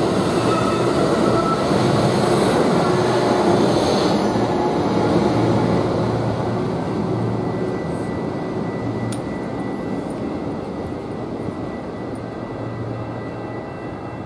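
Bilevel passenger train rolling past close by and pulling away, its wheel and car rumble fading steadily as it goes. A faint steady high tone carries on through the second half.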